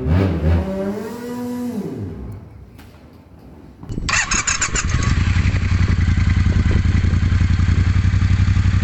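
A pitched sound glides down and fades over the first two seconds. About four seconds in, a motorcycle engine comes in abruptly, with a brief clatter at its onset, and then runs at a steady idle with a fast, even beat.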